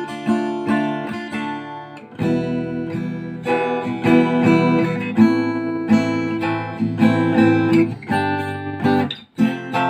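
Acoustic guitar strummed in the eight-stroke 'vosmyorka' pattern: two downstrokes, two upstrokes, then three down and one up, repeated, with a short break about two seconds in.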